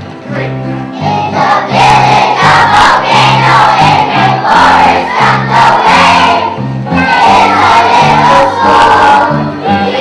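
A choir of young children singing a song over instrumental accompaniment with a steady run of low bass notes.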